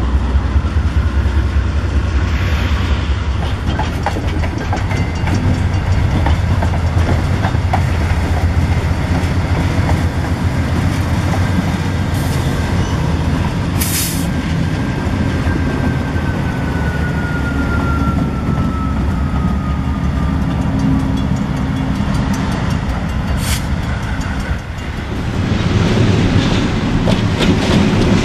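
Freight train hauled by GE Dash 8 diesel locomotives rolling by, with a heavy, steady low engine rumble. Near the end the rumble drops away and the clatter of freight car wheels over rail joints takes over.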